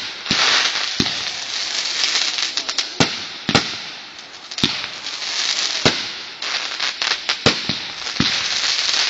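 Consumer fireworks going off: a steady crackling hiss with loud, sharp bangs about once a second.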